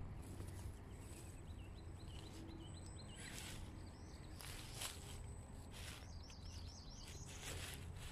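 Small birds singing: two runs of quick, repeated rising-and-falling chirps, with a few short rustling swishes over a faint low steady background.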